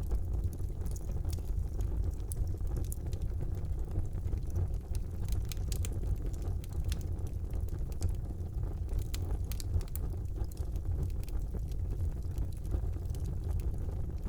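Wood fire burning in a fireplace: a steady low rumble of the flames, with frequent sharp crackles and pops scattered irregularly throughout.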